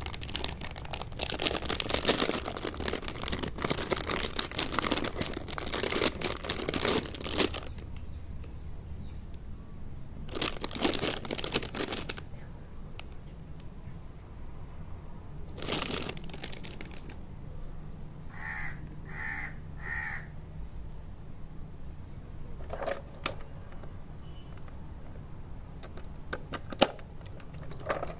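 Plastic packaging crinkling and rustling in several bursts as a toy is unboxed by hand. About two-thirds of the way through come three short, harsh calls in quick succession.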